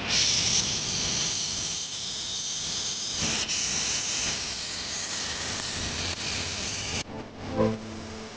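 Loud, steady hiss of pressurised gas escaping from air-conditioning copper pipework, starting abruptly and cutting off suddenly about seven seconds in.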